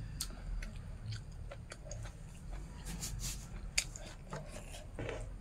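A person chewing a mouthful of rice and pork, with irregular sharp clicks and smacks of the mouth.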